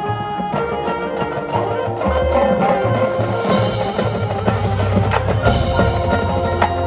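High school band playing sustained chords over low bass notes, with drums and percussion strikes; the music grows louder about two seconds in.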